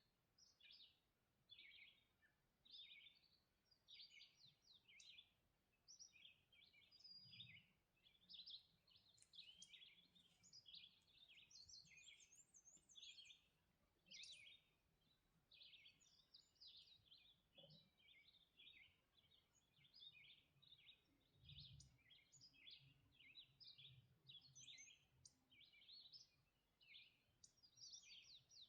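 Faint songbird chorus: many birds singing at once, a steady stream of overlapping high chirps and short trills.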